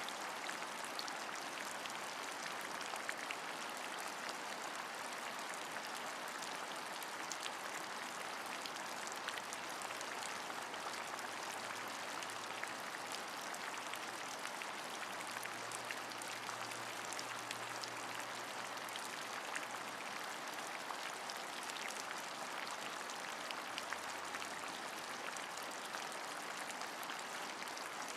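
Steady rain, an even hiss dotted with many sharp individual drop ticks.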